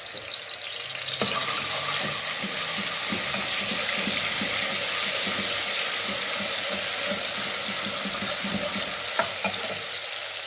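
Ginger-garlic paste sizzling in hot oil, stirred with a metal spoon that scrapes repeatedly against the aluminium pot; the sizzle swells about a second in and holds steady, with a couple of sharp clicks near the end.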